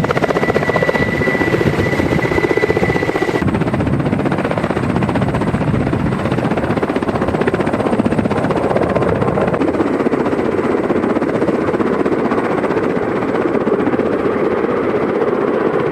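Helicopter running close by: a steady, rapid beat of the rotor blades over the engine noise. A thin high whine sounds over it and stops about three and a half seconds in.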